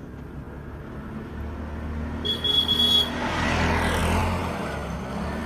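A motor vehicle drives close past on the street. It sounds a short, high-pitched horn about two seconds in, then its engine and tyres rush by, falling in pitch as it passes.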